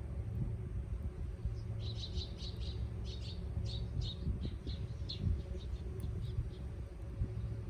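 A small bird chirping in a quick run of short high notes for about five seconds, starting about two seconds in, over a steady low rumble.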